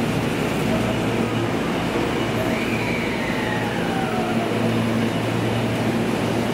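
Electric commuter train slowing along a station platform: a steady low hum and wheel noise, with whines that fall in pitch about two to four seconds in as it brakes.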